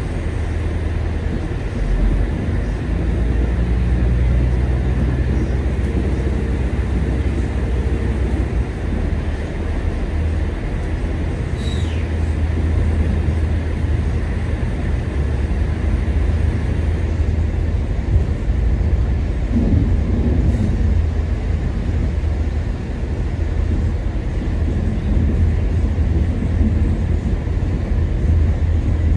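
Track inspection railcar running slowly along the track, heard from inside the carriage: a steady low drone and rumble from the engine and the wheels on the rails.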